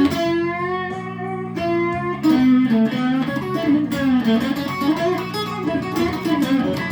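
Electric guitar playing a slow-blues lead fill between sung lines, with sustained notes that waver with vibrato and bend in pitch.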